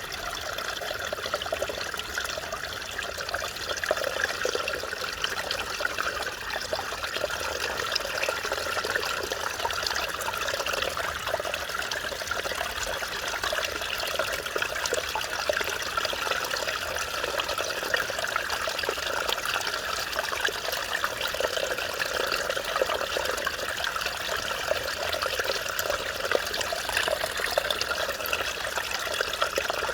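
Mountain stream water babbling and splashing over rocks, a steady bubbling rush.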